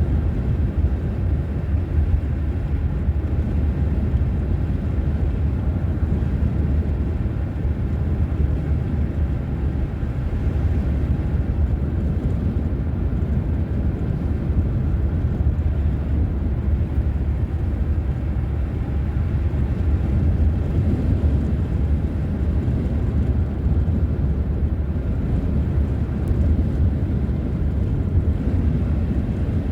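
Steady low rumble of a car driving, heard from inside the cabin: road and engine noise at an even level.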